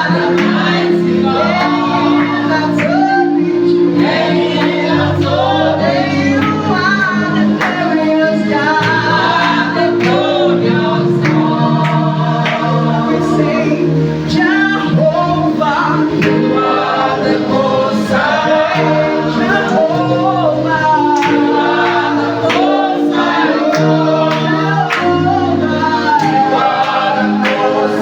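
Gospel praise and worship music: a group of singers with female and male voices singing together over a band with a bass line and a steady beat.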